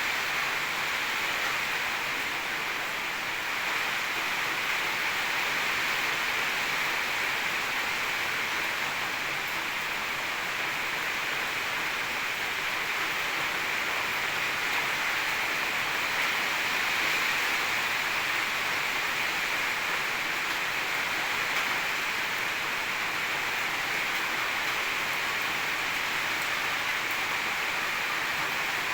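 Heavy storm rain falling, a steady, even hiss.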